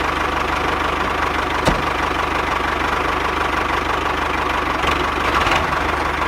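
Small engine running steadily at a fast even idle, with one sharp knock just under two seconds in.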